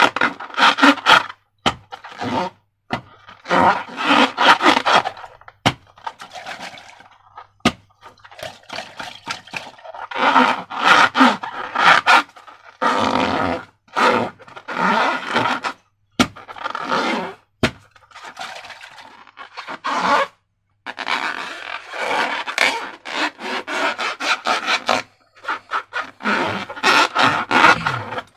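Slime-filled rubber balloons being squeezed and handled: rubbery scraping and squishing in uneven bursts of a second or two, with short pauses and a few sharp clicks between them.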